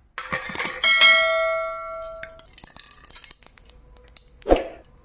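Stainless steel cookware struck once about a second in, ringing like a bell and dying away over about a second and a half, after a few small clinks. A faint high hiss follows.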